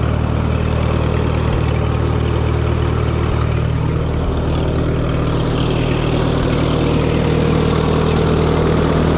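1954 Minneapolis Moline UBU tractor's gasoline engine running steadily, freshly tuned up with new plugs, points and condenser, a cleaned carburetor and reset timing.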